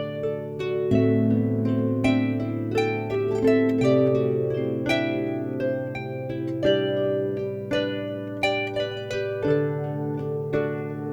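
Instrumental music led by a harp: a run of plucked notes that ring and fade over long held low notes, the bass changing every few seconds.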